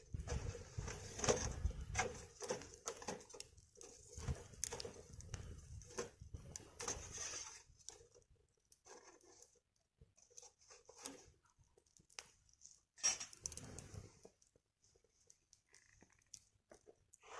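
Wood fire crackling, with scattered sharp pops over a low rumble for the first half, then only occasional ticks and pops.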